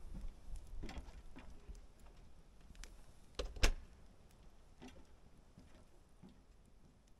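A handful of scattered sharp knocks and clicks, the loudest about three and a half seconds in, over a low rumble that fades in the first couple of seconds.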